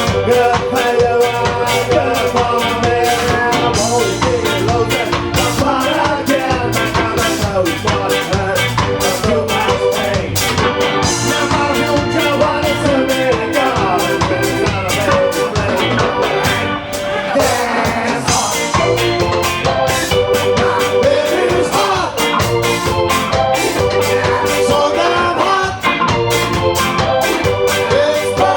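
Live ska band playing, with a steady driving beat.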